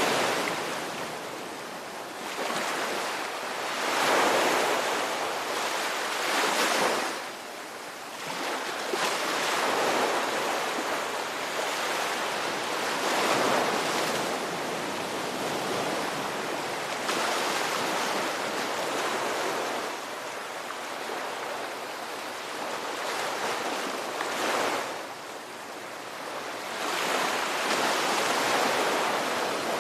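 Ocean waves breaking and washing on a shore, a continuous rush of surf that swells and recedes every few seconds.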